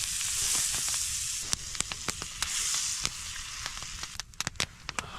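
Food sizzling as it fries on a griddle, with a scatter of small sharp pops; the sizzle fades after about three and a half seconds, leaving mostly the pops.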